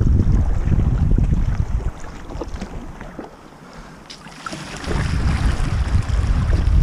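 Wind buffeting the microphone on a sea kayak, easing off for a couple of seconds in the middle, with water sloshing and splashing around the hull.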